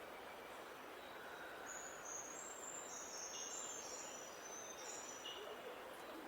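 A small songbird singing a run of short, thin, very high notes at stepped pitches, starting about two seconds in and stopping about five seconds in. Behind it is a steady outdoor hiss.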